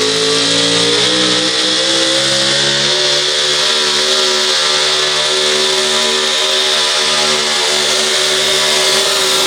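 A four-wheel-drive pulling truck's engine running at full throttle down the track. Its pitch climbs over the first few seconds, then holds high and steady, easing slightly near the end, with the tyres spinning for wheel speed.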